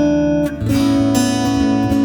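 Background music: strummed acoustic guitar chords, with a chord change about half a second in.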